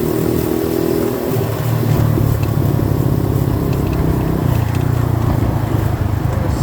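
Small 90cc dirt bike engine running under the rider, its revs dropping about a second in and then running low and steady, with wind and road noise underneath.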